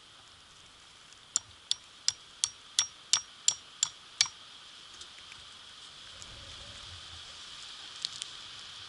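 A run of nine sharp, evenly spaced clicks, about three a second, then two more near the end, over a steady hiss.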